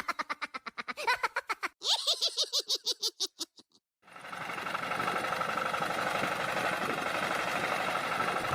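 A fast run of clicks with falling tones for about four seconds, then, after a short break, a steady mechanical running noise with a faint whine.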